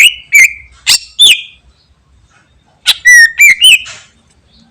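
Cucak ijo (green leafbird) singing loud, sharp whistled notes in two bursts: about five strident notes, a pause of about a second, then four more quick notes.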